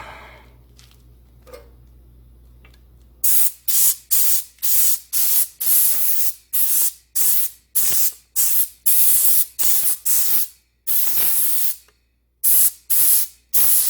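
Compressed air from an air-hose blowgun fired in short repeated blasts, about two a second, with one longer blast near the end, clearing sand masking off a freshly painted engine part.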